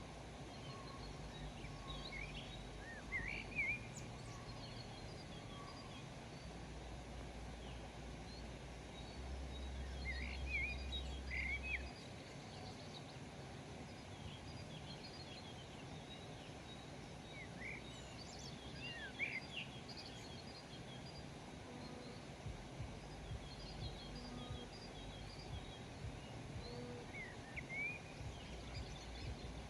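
Small birds chirping and calling in scattered bursts of short squeaky notes, with a steady low rumble of outdoor background noise underneath.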